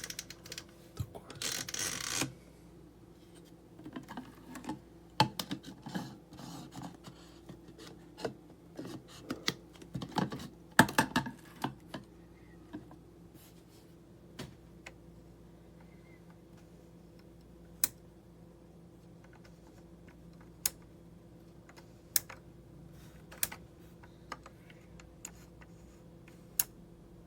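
Scattered light clicks and taps, with a couple of brief rustling, scraping patches, over a faint steady hum.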